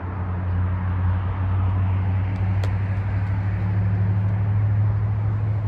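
A steady low motor hum over a haze of noise, with a single sharp click about two and a half seconds in.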